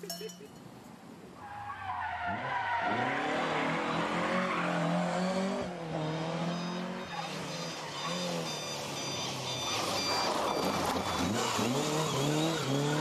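Ford Escort Mk2 rally car's engine revving hard as the car drives past, its pitch climbing and dropping several times as it changes gear.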